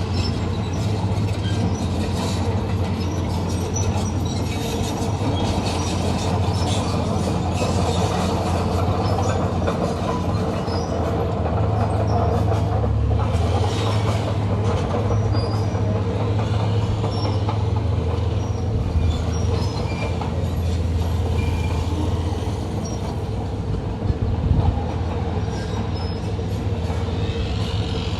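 Crawler bulldozer working, its diesel engine running with a steady low hum under the clanking and squealing of its steel tracks. There is a brief louder knock near the end.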